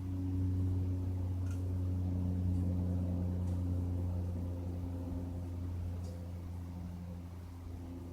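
Cessna light aircraft's piston engine and propeller droning overhead, a steady low hum that slowly fades.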